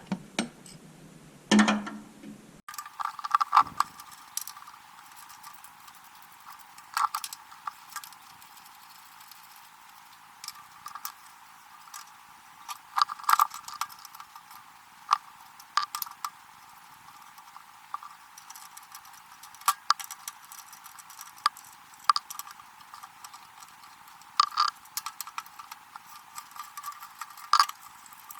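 Scattered metallic clicks and clinks of hand tools and bolts at irregular intervals, from work on the car's underside skid plate.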